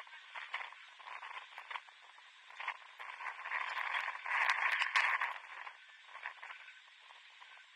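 Pitch-side sound of a seven-a-side football match: scattered sharp knocks such as ball kicks, with a louder stretch of noise from the field for about two seconds midway.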